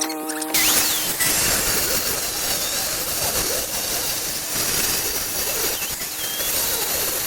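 Power saw cutting through a wooden rafter board: the saw's whine gives way to a loud, steady cutting noise about half a second in.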